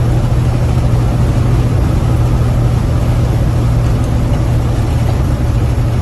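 Big-rig truck's diesel engine running steadily inside the cab, a constant low drone with road rumble underneath.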